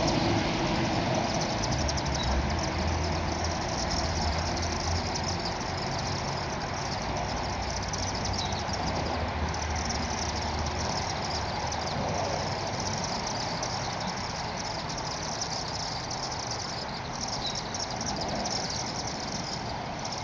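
A vehicle engine running with a low rumble that fades out about halfway through, over a steady outdoor background with the high twittering of chimney swifts.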